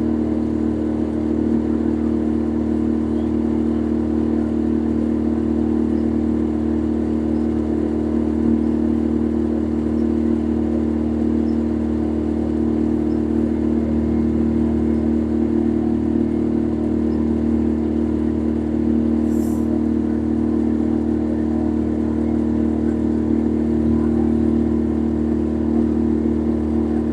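Engine running at a constant speed, a steady droning hum heard from on board while under way.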